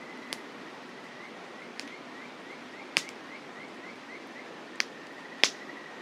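Campfire wood crackling: five sharp pops over a steady hiss, the loudest one near the end. A faint high-pitched chirping runs through the middle at about four chirps a second.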